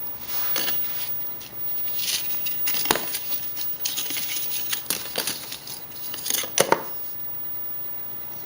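Paper bus and subway timetables being handled: irregular rustling and crinkling with sharp clicks, stopping about seven seconds in.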